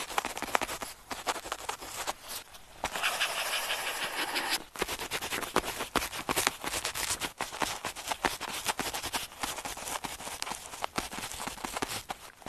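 Pen tip scratching across paper in quick, irregular writing strokes, with a longer continuous stroke about three seconds in and short pauses between words.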